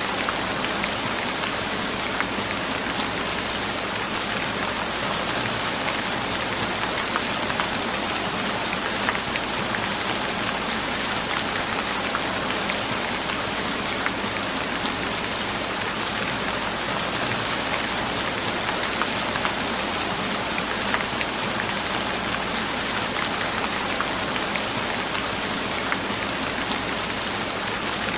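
Steady rain falling on a surface: an even hiss with scattered faint droplet ticks.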